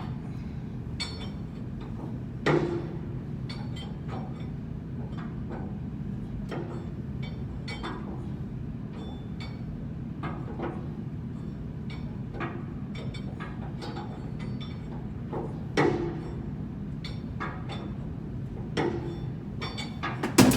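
Irregular metal knocks, taps and clinks from hand tools, likely a hammer, on blower and bearing parts, with a few louder strikes. A steady low machinery hum runs underneath.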